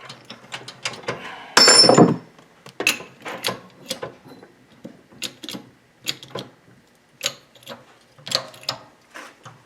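Hand tools working on metal front-suspension parts: irregular metal clicks and knocks, with one loud clattering scrape about two seconds in, as a tight-fitting part is worked into place.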